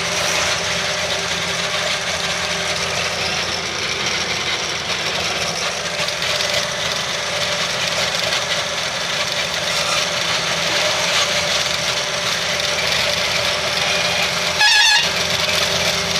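Loaded truck's engine running steadily. Near the end there is a brief, louder sound with a wavering pitch, about half a second long.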